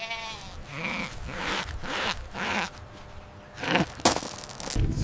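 Goat bleating several times in short, quavering calls. A loud low sound starts near the end.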